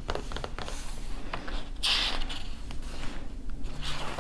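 Paper pages of an old book being handled and turned: light taps and rustles, then a page swishing over about two seconds in and another near the end.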